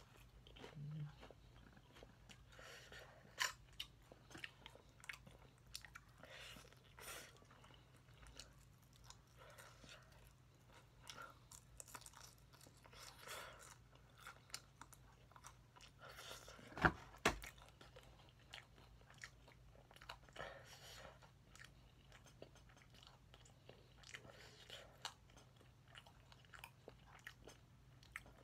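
A person biting and chewing crispy honey-glazed fried chicken: a run of soft crunches and chewing, with two sharper crunches about 17 seconds in.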